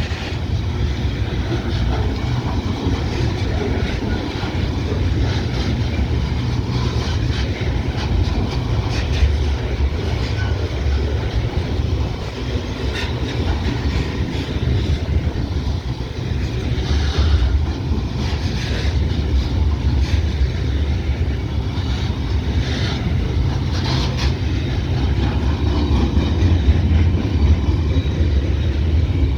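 Freight train rolling past: a steady low rumble, with scattered sharper clicks and clanks higher up.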